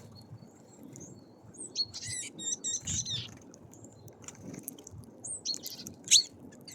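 Small songbirds at a feeder giving short high chirps and calls in two bouts, about two seconds in and again near the end, with one sharp, louder note just before the end.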